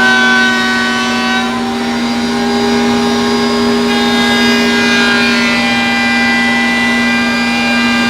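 Router running in a router table with a flush-trim bit, trimming masonite flush: a steady, loud motor whine whose pitch shifts slightly about one and a half and four seconds in.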